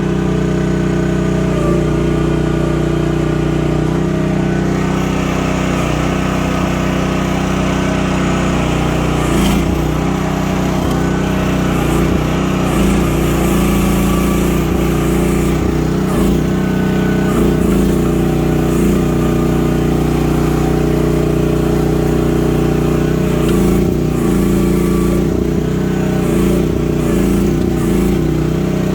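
The small pull-start engine of a mini excavator running steadily at a constant speed.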